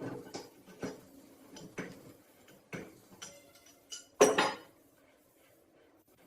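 Metal parts knocking and clinking as they are handled, a few separate knocks followed by one louder metallic clatter about four seconds in.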